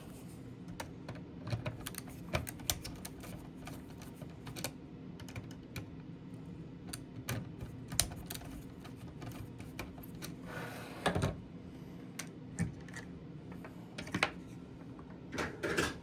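Irregular light clicks and taps of hands working small parts, wires and a screwdriver at screw terminals, with a short rustle about eleven seconds in and another near the end.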